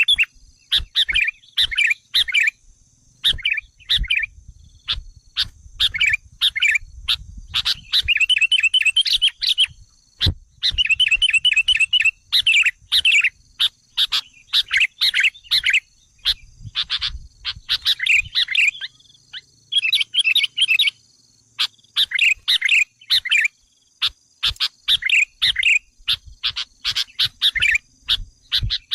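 Sooty-headed bulbul (kutilang) lure call: bursts of rapid, excited chattering notes lasting a second or two, repeated over and over with short sharp clicks between them. A pikat recording meant to provoke wild bulbuls.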